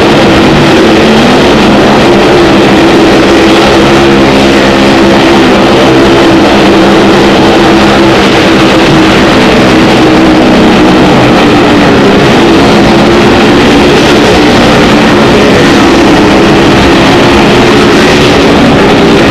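Vehicle engines running loud and steady without a break, typical of motorcycles circling the wall of a well-of-death stunt show.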